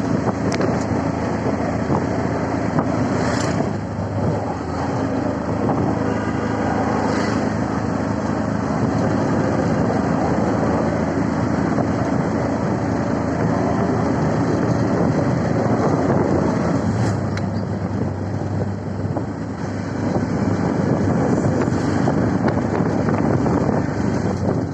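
CNG auto-rickshaw riding along, its small engine running with a steady drone under road and wind noise.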